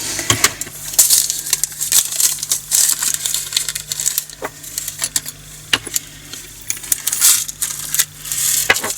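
Leftover diamond painting drills, tiny resin beads, being tipped from a bag into a storage container: a dense, irregular patter of small clicks and rattles.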